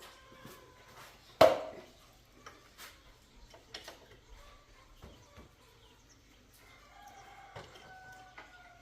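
Metal tools and parts clinking on a workbench, with one loud metallic clank that rings briefly about a second and a half in. A drawn-out animal call comes near the end.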